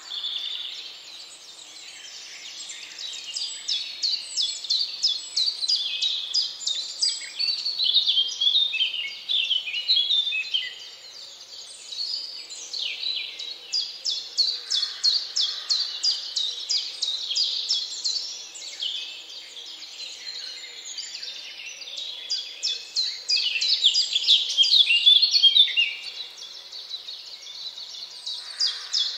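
Birds chirping and singing, several at once, with runs of rapid repeated high notes that come and go.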